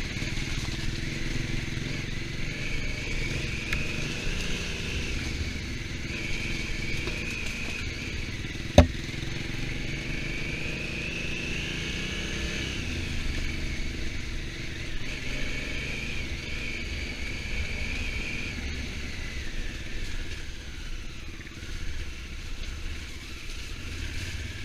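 Honda Africa Twin motorcycle engine running on the move, its pitch rising and falling gently with the throttle. A single sharp click about nine seconds in.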